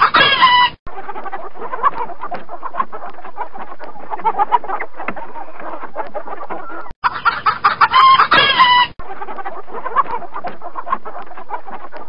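A rooster crowing twice, once ending about a second in and again about seven seconds in, with a flock of hens clucking steadily in between and after.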